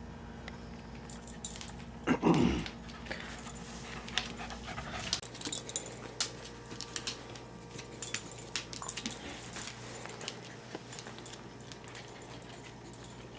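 A small dog, a Bichon Frise, moving about with small metal tags jingling and clicking over and over. About two seconds in there is one short sliding vocal sound that drops in pitch.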